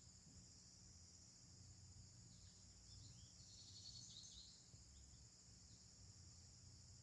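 Faint, steady chorus of crickets chirping, with a bird calling in a few short chirps in the middle.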